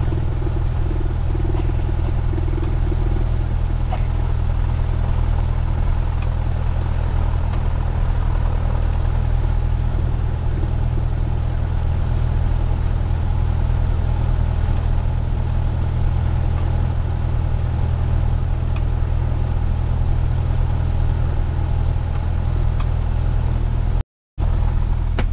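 Cessna 172R's four-cylinder Lycoming piston engine and propeller running steadily at low power while the plane waits on the ground, a continuous low drone. The sound cuts out for a moment near the end.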